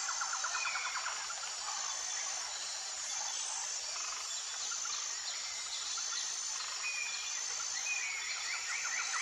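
Tropical forest ambience: a dense insect chorus with a high, evenly repeating buzz, and birds giving short whistles. A rapid trill is heard at the start and again near the end.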